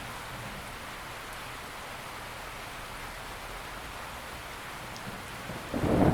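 Steady rain falling, an even hiss, with a loud low rumble of thunder breaking in near the end.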